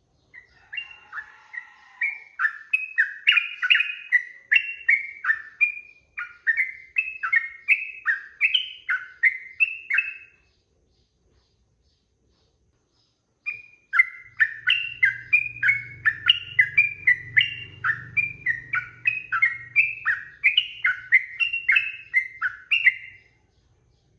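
Sooty-headed bulbul (trucukan) singing in two long runs of rapid, repeated whistled notes, each lasting about ten seconds, with a pause of about three seconds between them.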